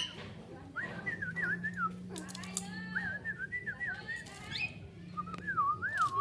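Whistling in short warbling phrases: clear notes that swoop quickly up and down, ending in a regular wide trill. A low steady hum sits underneath.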